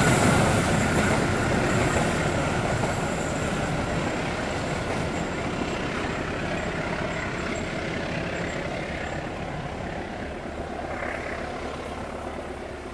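A long passenger train rolling past and away, its rumble and wheel noise fading steadily.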